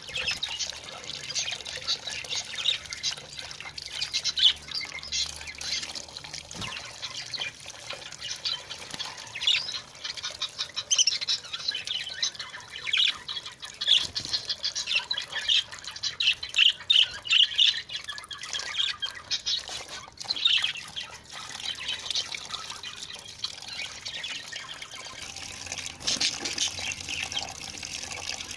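Budgerigars chirping and squawking as they bathe in a trickle of running tap water. The chirps come thickest around the middle.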